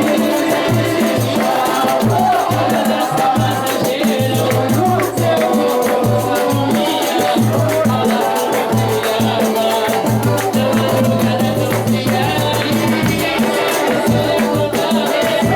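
Live samba music from a band: a shaker keeps a fast, even pulse over a pulsing bass line and pitched instruments, with voices faintly in the mix.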